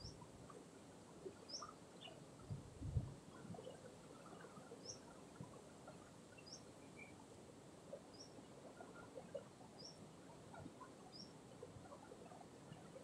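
A bird repeats a short, high chirp about every second and a half, faint over quiet outdoor background. A single low thump comes about three seconds in.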